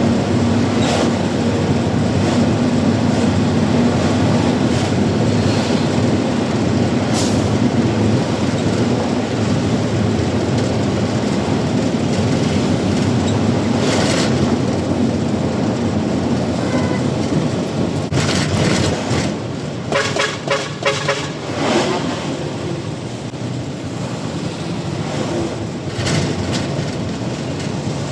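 Truck in motion, heard from the cab: a loud, steady engine and road rumble. About two-thirds of the way through, a brief pitched tone sounds in several quick pulses.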